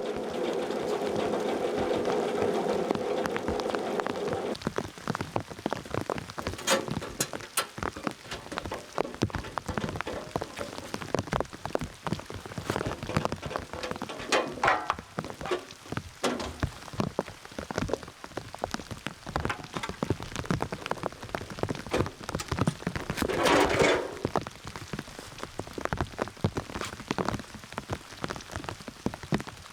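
Portable sawmill's pull-start engine running for the first few seconds, then cutting off abruptly. After that, rain drips in irregular sharp ticks, with one louder noise lasting about a second roughly three-quarters of the way through.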